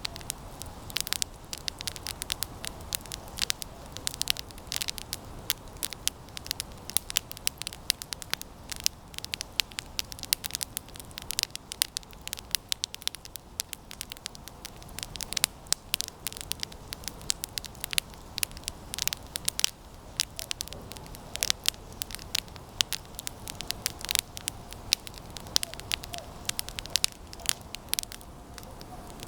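Campfire of resinous pine branches burning, with frequent sharp crackles and pops over a steady hiss.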